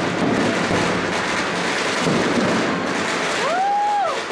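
Fireworks display: a dense, continuous crackle of many shells popping, under low rumbling booms. Near the end comes a short whistle-like tone that rises and then falls.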